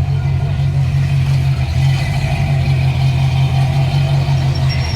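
A classic car's engine idling close by, a steady deep rumble. A faint high whine comes in near the end.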